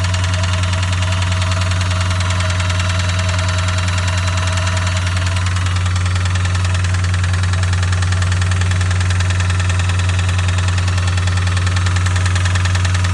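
Chevrolet Impala engine idling steadily with a rapid, even knock. The owner takes the knock for a top-end (valvetrain) fault, though he says he could be wrong.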